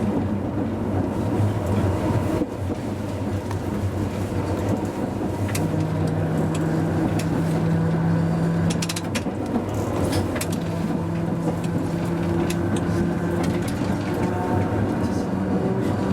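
Hakodate streetcar No. 530 running on its track, heard from the driver's cab: a steady running rumble. A low hum comes and goes twice through the middle, and a few sharp clicks of the wheels on the rails fall around the middle and near the end.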